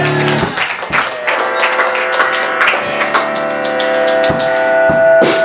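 A live rock band playing the close of a song: electric guitar chords ringing on under repeated drum hits, stopping right at the end.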